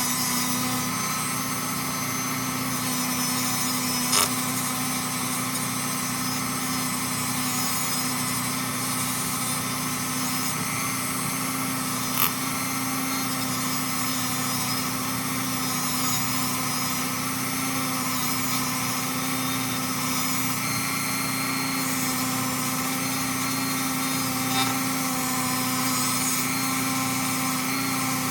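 Dremel rotary tool running at a steady high speed, a worn bit scrubbing black spray paint and grime out from between the teeth of an aluminium BMX chainring. Three sharp ticks come through, one about four seconds in, one near the middle and one near the end.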